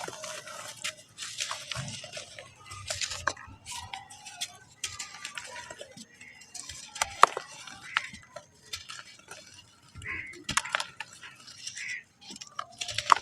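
Lumps of dry black sand-cement crumbling and dropping into water: irregular crunches and sharp clicks, the loudest about seven seconds in.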